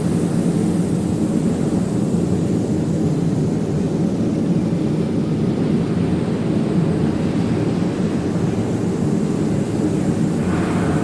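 Steady low rumble of industrial machinery running continuously, with a brief brighter hiss near the end.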